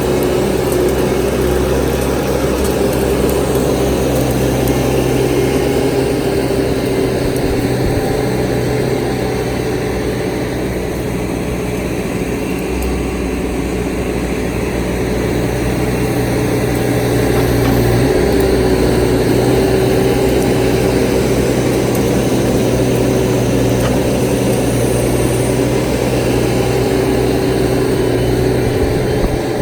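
Bobcat T650 compact track loader's diesel engine running steadily at working revs while the root grapple is worked into dense brush, the level swelling a little about two-thirds of the way through.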